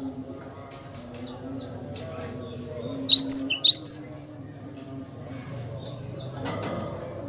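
Cinereous tit (glatik batu) singing: a run of short, high chirps, with a loud burst of four sharp notes about three seconds in, over a faint low hum.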